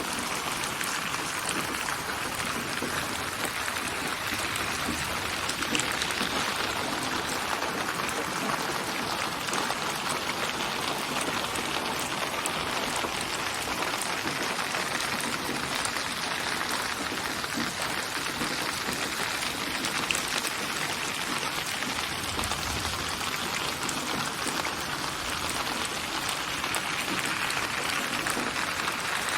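Steady rain falling, an even hiss of many small drops with faint individual drop ticks. A short low rumble comes about three quarters of the way through.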